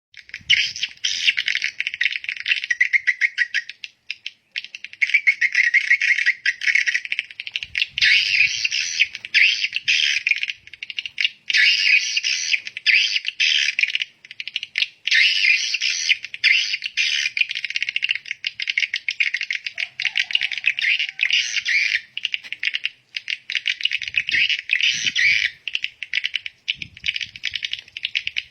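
Dense, rapid twittering and chattering of small birds, coming in bursts of a few seconds with short breaks between them.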